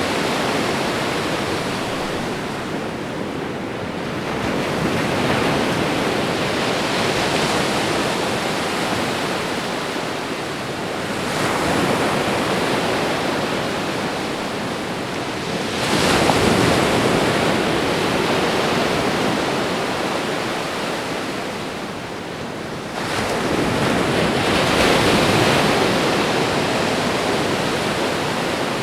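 Ocean surf: a continuous wash of waves on a shore, swelling as a new wave breaks about every five to seven seconds, four times.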